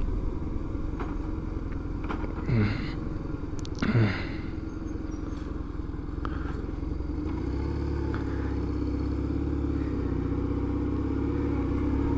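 Motorcycle engine running steadily under way, its pitch creeping up slightly in the second half. Two short sounds falling in pitch cut through it about two and a half and four seconds in.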